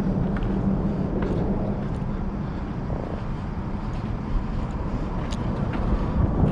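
Steady low rumble of road traffic, with a constant low hum and a few faint scattered clicks.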